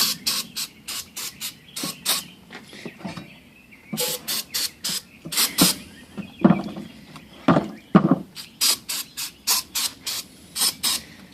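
Quick, irregular scrubbing strokes on a lower intake manifold, about two or three short rasping strokes a second, with a few heavier strokes a little past the middle.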